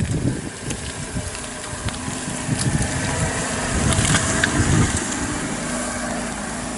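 Fiat Panda 4x4 engine running at low revs as the car crawls through deep muddy ruts, growing louder as it passes close by about four seconds in, with a few scattered clicks.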